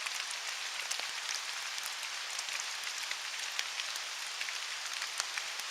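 Steady rain falling through woodland: an even hiss with many small drops ticking close by.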